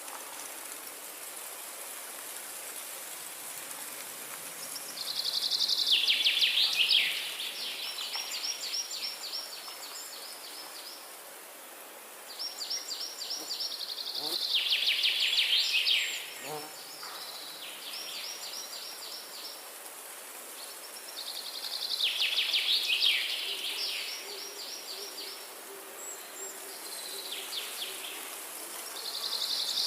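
A songbird singing the same song of rapid trilled notes four times, each about three seconds long and about eight seconds apart. A steady high hiss of forest ambience runs underneath.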